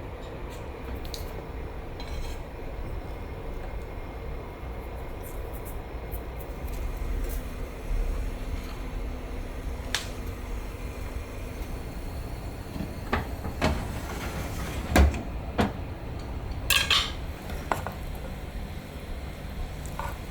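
Dishes and cutlery clinking and knocking against each other in a kitchen, a handful of sharp knocks coming close together in the second half, over a steady low background noise.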